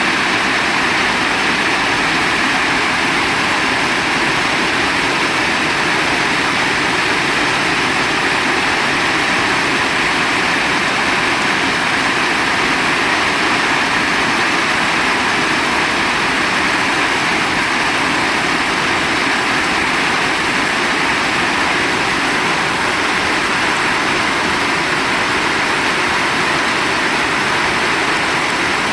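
Heavy rain pouring down: a dense, even hiss that holds steady without any let-up.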